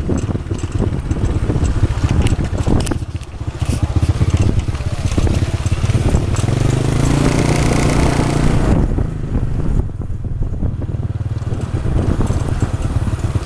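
Motorbike engine running under a rider's passenger, heard from on the bike with rushing road and wind noise. The engine swells louder from about six seconds in, then eases off near nine seconds.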